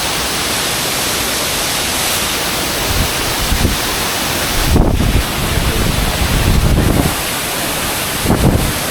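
Steady, loud roar of a waterfall pouring onto rocks, close by. From about three seconds in, low rumbling gusts buffet the microphone several times.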